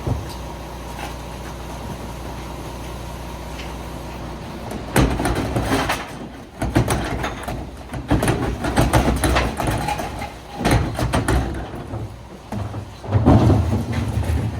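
Garbage truck engine idling steadily, then about five seconds in a run of loud, irregular clanks and bangs from the truck's collection gear as it works.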